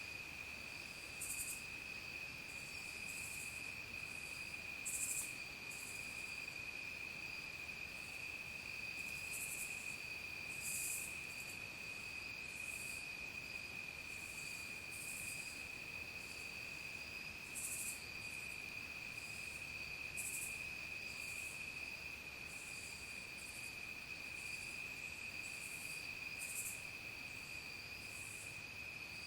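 Dusk insect chorus: a steady, unbroken high-pitched trill from crickets, overlaid with many short, higher-pitched buzzes from other insects that come and go at irregular intervals.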